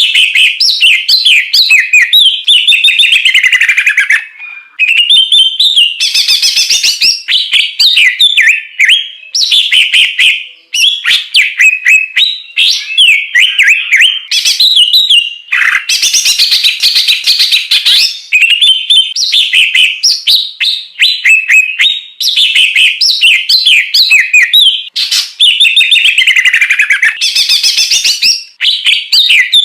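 Recorded songbird singing from a masteran (song-tutoring) track: loud, rapid chattering and trilling phrases that follow one another with only brief breaks.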